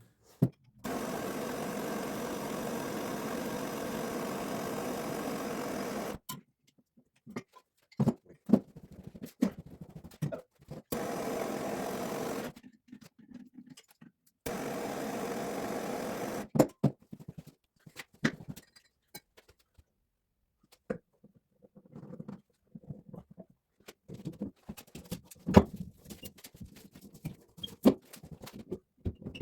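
A small motor running steadily in three stretches that start and stop abruptly, the first about five seconds long, then scattered clicks and knocks of parts being handled.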